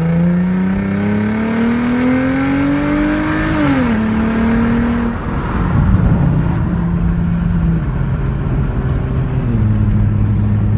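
Hyundai Genesis engine accelerating hard with the traction control off: its pitch climbs for about three and a half seconds, drops at a gear change, then holds steadier, with another drop near the end.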